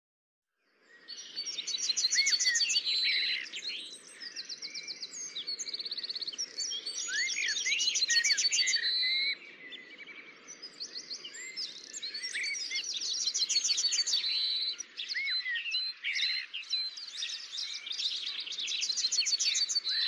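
Songbirds singing and chirping, with rapid trills and short quick notes overlapping one another, over a faint low hum that fades out about three-quarters of the way through.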